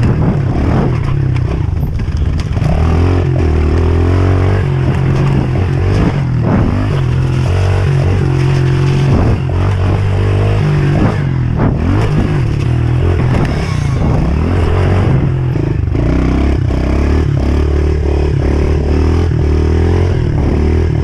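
Pit bike engine running and revving up and down while riding a rough trail, with knocks and rattles from the bike throughout.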